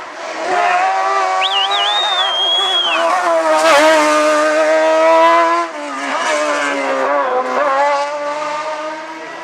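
Hillclimb race car engine revving hard under acceleration, its pitch climbing and falling through gear changes, with a sudden drop about five and a half seconds in. A high whistling tone sounds briefly over it at about one and a half seconds in.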